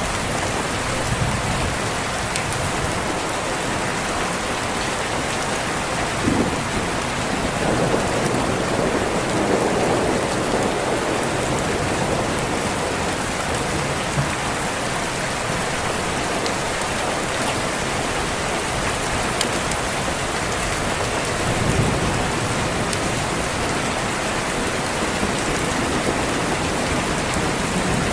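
Steady rain with low rolls of thunder, one swelling about 8 seconds in and another near the 22-second mark.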